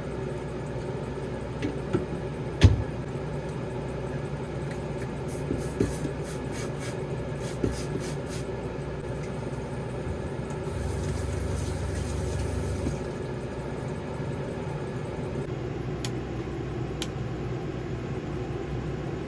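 Steady hum of a camper's air conditioner, overlaid with scattered knocks and clinks of kitchen things being tidied away. The loudest knock comes near the start, a quick run of clicks follows a few seconds later, and a couple of seconds of hiss come just past halfway.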